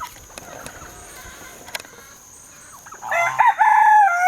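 Rooster crowing: a loud cock-a-doodle-doo begins about three seconds in, rising and then settling into a long held note.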